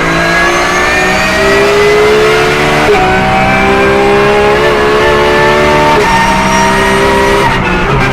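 Porsche 911 GT3 R (992) race car's flat-six engine pulling at full throttle, its pitch climbing steadily, with quick upshifts about three seconds in and again about six seconds in, where the revs drop sharply and start climbing again.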